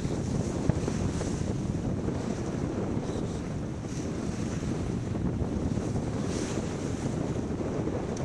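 Steady wind rushing over the microphone, mixed with water washing along a sailboat's hull under way.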